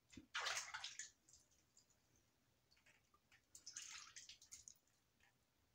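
A hand swishing through bathwater in a tub, in two short splashy bursts: one just after the start and one about four seconds in.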